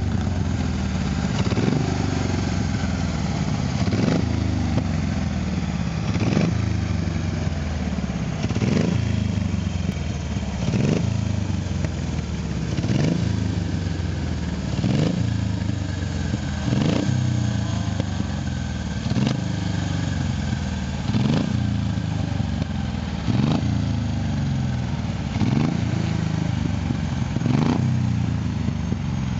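Vintage racing car engines running hard as the cars climb the hill. The engine note rises and drops back sharply about every two seconds, over and over.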